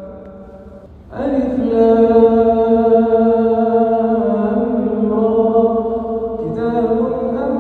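A male reciter's voice chanting the Quran in melodic tajweed style, drawing out long held notes. One phrase fades away in the first second, and a new phrase begins loudly about a second in, its held notes shifting pitch a couple of times.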